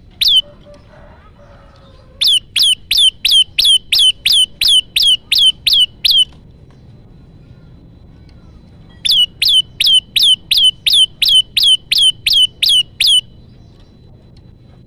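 Prenjak lumut (a prinia) call: one sharp note, then two runs of about a dozen quick, high, down-slurred chip notes at about three a second, with a pause of a few seconds between the runs. This is a lure call used to draw in wild prinias and set captive ones singing.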